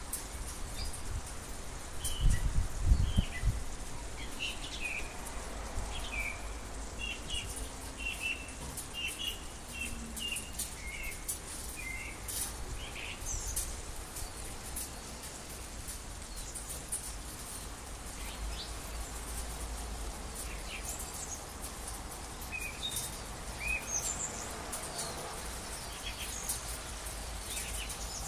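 Small songbirds chirping in short, repeated notes, thick through the first half and again briefly near the end, over a steady low outdoor rumble. A brief low rumble about two seconds in is the loudest sound.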